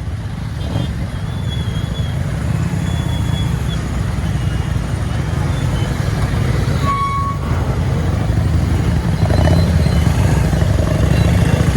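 Motorcycle ride on a road: a steady low rumble of engine and road noise, growing slightly louder towards the end, with a brief high tone about seven seconds in.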